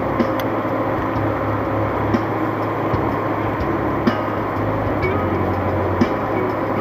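Steady road and engine noise inside a moving car, with a low hum and a few small knocks and rattles scattered through it.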